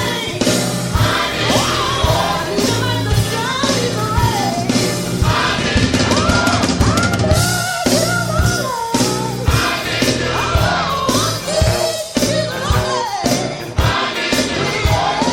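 Gospel music: a choir and lead voices singing over a steady drum beat and bass.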